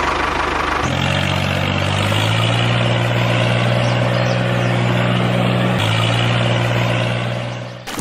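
Tractor engine running steadily. Its pitch steps up about two seconds in and drops back near six seconds, then it fades out just before the end.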